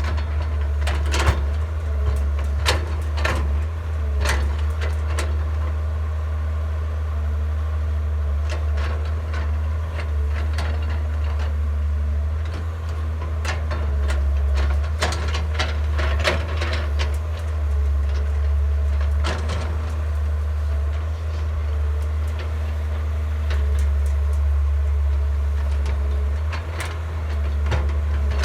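Excavator digging soil: its diesel engine runs steadily with a deep drone, while irregular knocks and clanks come from the bucket and arm working the ground.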